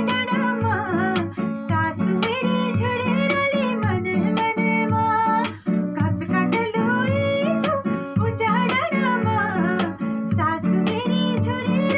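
A woman singing a melodic song, accompanied by a guitar strummed in a steady rhythm.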